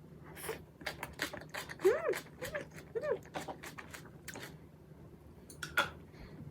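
Close-miked eating sounds: a run of small crisp clicks and crunches from chewing and utensils, with three short pitched sounds that rise and fall, about two to three seconds in.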